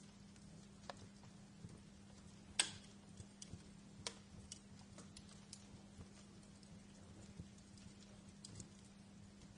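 Wood fire crackling: irregular sharp pops and snaps, the loudest about two and a half seconds in, over a faint steady low hum.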